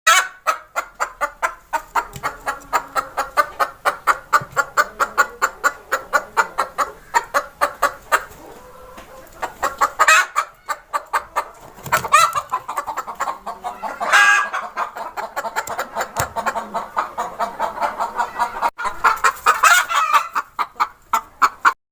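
Hen clucking in rapid runs of short clucks, about three to four a second, with a lull about a third of the way in and a few longer, louder calls in between.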